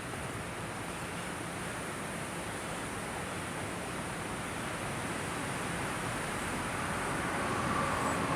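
Steady hiss of rain falling during a thunderstorm, growing slightly louder near the end.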